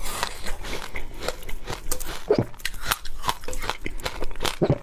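Crunching and chewing of frozen passion fruit ice in the mouth, with irregular sharp cracks as the ice breaks between the teeth.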